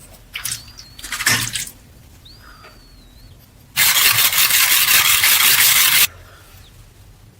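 Sandpaper rubbing against a rusty metal part, a couple of short scratchy strokes about a second in, then one long, loud stroke of about two seconds past the middle.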